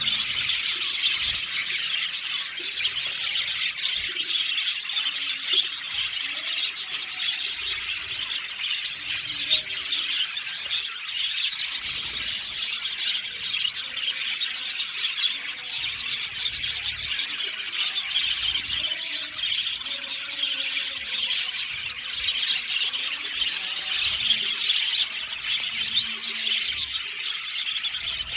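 A flock of budgerigars chattering and chirping all at once, a dense continuous warble of many short high calls.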